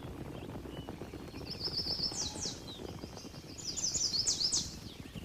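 A small bird singing two short, high trilled phrases, each ending in quick falling notes, about a second and a half in and again near the end, over a steady low crackling noise.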